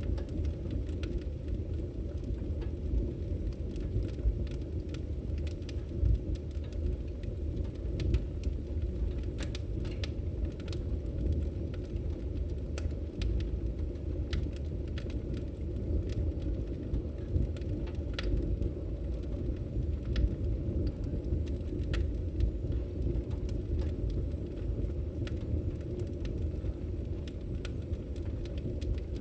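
Wood fire crackling in a fireplace: a steady low rumble of the flames, with irregular sharp pops and snaps scattered throughout.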